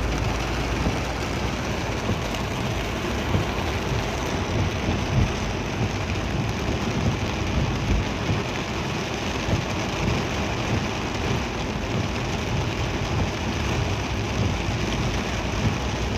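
Heavy rain pouring down on a moving vehicle, a steady hiss with a constant rumble underneath.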